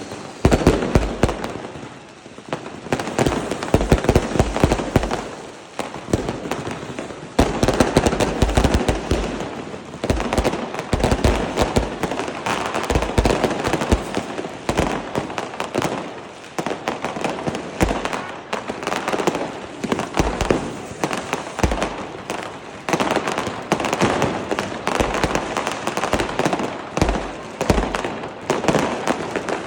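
Many fireworks and firecrackers going off at once: a continuous dense crackling of bangs, with deep booms every second or two.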